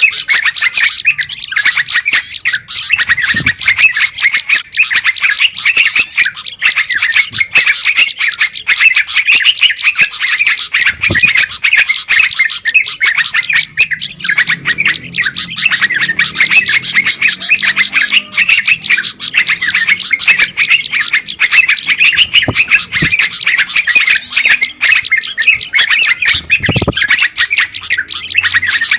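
Dense, unbroken chorus of many small songbirds chirping and chattering over one another, the noisy flock chatter of a bird-lure (pikat) recording.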